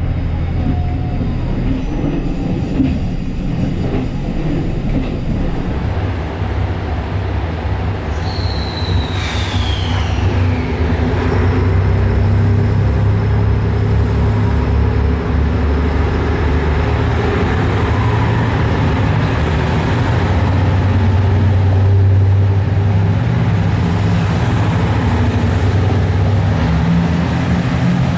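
Diesel railcar of a JR Shikoku 2700 series limited express running, a steady engine drone with rail noise. About nine seconds in, a high squeal falls in pitch over a second or two.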